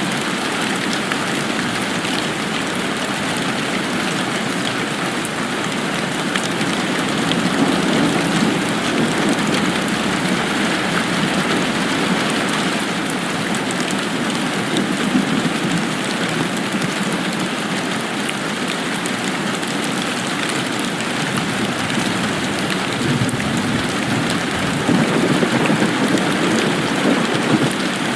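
Steady heavy rain falling, a dense even patter with no thunder or other events, swelling slightly louder a couple of times.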